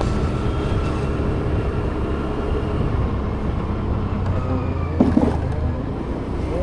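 Steady vehicle engine and road rumble while moving, with a brief pitched sound about five seconds in.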